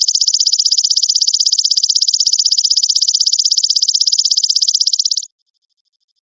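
Belalang emas, the golden grasshopper insect, calling in a loud, high, rapidly pulsed buzzing trill that cuts off abruptly about five seconds in, leaving a faint, softer pulsing.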